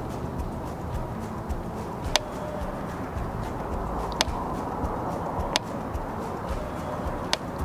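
Steady low rumble of a long freight train running in the distance, with four sharp clicks spread through it.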